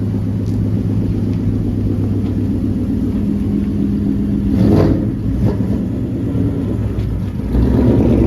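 Car engine running steadily at idle, with a short louder burst about halfway through and a swell in level near the end.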